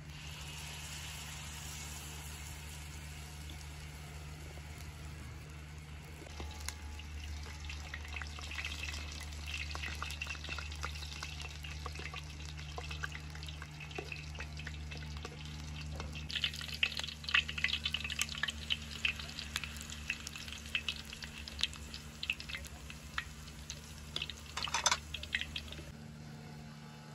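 Pumpkin pancake batter frying in hot oil in a steel pan, a steady sizzle with crackling and spitting that grows denser past the middle. There is one sharper crack near the end.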